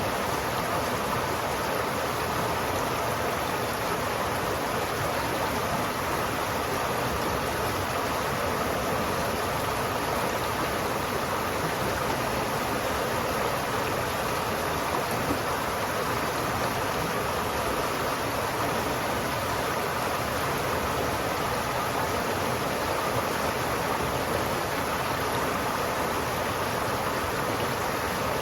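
River water flowing steadily, a constant, even sound of running water that does not change.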